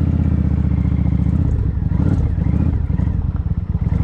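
Motorcycle engine running while being ridden. Its steady low note changes about a second and a half in and turns rougher and more pulsing.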